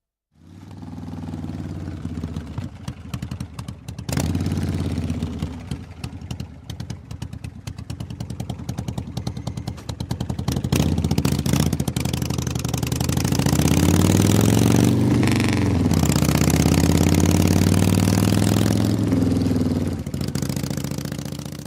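Motorcycle engine running with a fast pulsing exhaust beat. It gets louder about four seconds in, and in the later part it is revved up and eased back down.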